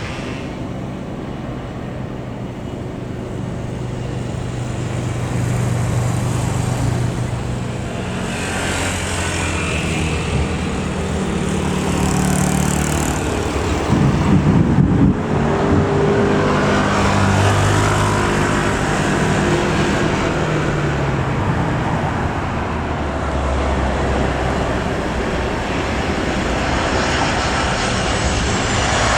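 Airliner engines running loudly and steadily as an aircraft moves on or near the runway, with a brief rough rumble about halfway through.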